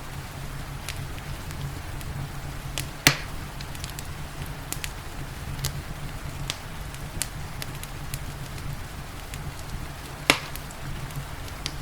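Wood fire crackling, with scattered small snaps over a steady low rumble, and two loud pops, about three seconds in and again near the end.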